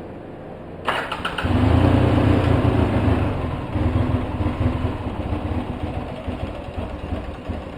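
Polaris Sportsman 700 twin-cylinder ATV engine being restarted: a brief rapid cranking about a second in, then the engine catches and runs loudly before settling back toward a rough idle, an engine that only keeps running on choke.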